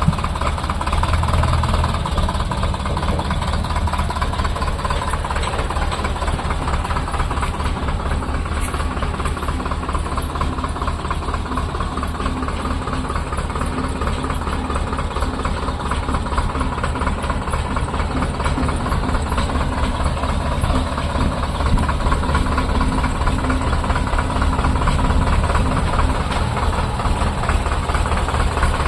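Sonalika DI 750 tractor's diesel engine running steadily with a fast, even clatter, growing slightly louder near the end.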